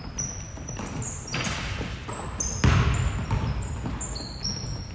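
Basketball bouncing on a hardwood court during play: several irregular thuds, the loudest about two and a half seconds in.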